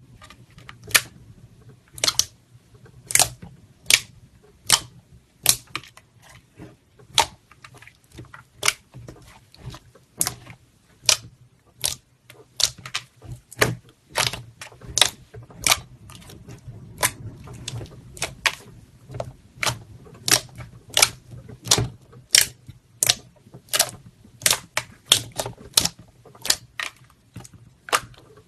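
A long series of sharp clicks or pops at irregular spacing, roughly one to two a second, over a faint steady low hum.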